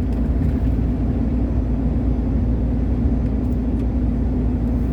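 Steady engine and road drone heard inside the cab of a moving long-haul truck, with a constant low hum.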